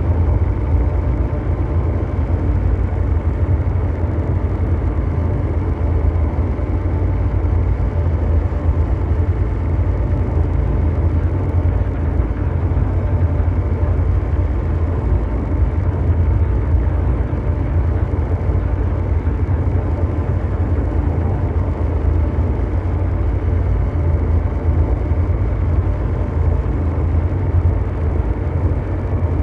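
Continuous mechanical drone ambience: deep brown noise with a steady low hum at its bottom and faint steady tones above it, unchanging throughout.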